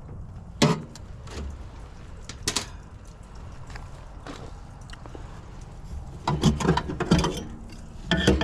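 Hand-work on a gas furnace's burner assembly: single sharp knocks about a second and two and a half seconds in, then two bursts of rattling clatter near the end, as metal parts and tools are handled.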